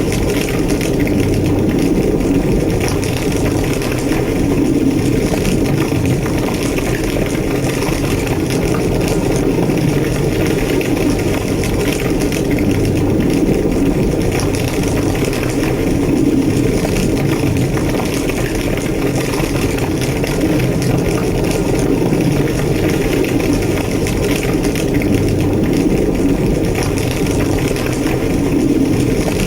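Large building fire burning with a loud, steady low roar and fine crackling throughout.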